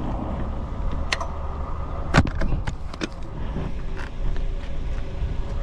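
A handful of short, sharp clicks and knocks, spaced irregularly, as the folding e-bike's pedals are folded in, over a steady low rumble.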